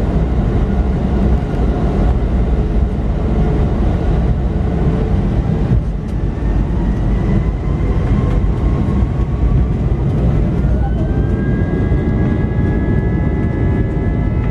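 Airbus A320 jet engines spooling up over a loud, steady low rumble: a whine rises in pitch from about halfway through, then holds at a steady higher pitch for the last few seconds.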